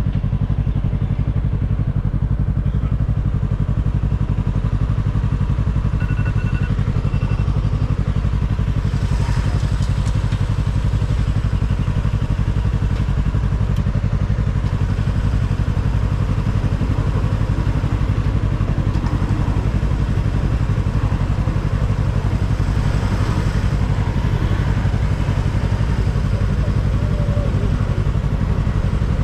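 Yamaha R3's parallel-twin engine running steadily at an even engine speed.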